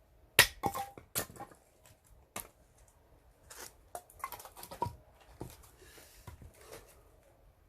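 Axe striking oak firewood to split it: a sharp strike about half a second in, the loudest, then several more knocks and the cracking and clatter of split wood, with lighter scraping and rustling between.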